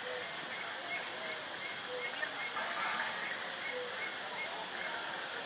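Outdoor ambience of small birds chirping, short repeated chirps scattered throughout, over a steady high-pitched hiss.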